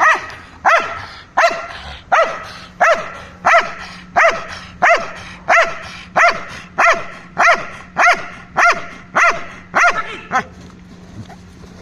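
Dutch shepherd dog barking in a steady, even run of about sixteen loud barks, roughly three every two seconds, stopping about ten seconds in.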